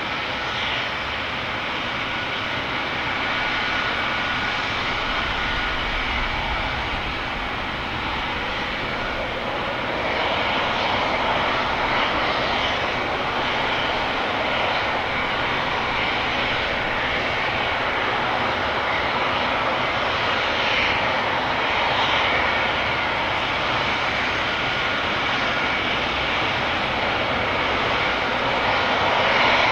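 AgustaWestland AW139 helicopter running, its twin Pratt & Whitney Canada PT6C turboshaft engines giving a steady turbine whine over the roar of the five-bladed rotor. The sound grows louder about a third of the way through and again at the very end.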